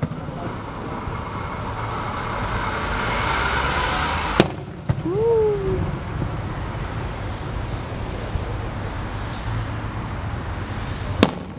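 Fireworks display: a hiss builds for a few seconds and ends in a sharp bang about four seconds in, with another sharp bang near the end and a low rumble throughout.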